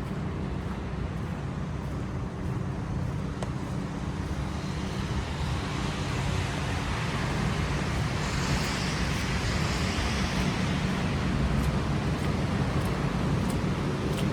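Street traffic: a steady low rumble of engines, with a car passing and its tyre hiss swelling up over several seconds in the middle and then easing off.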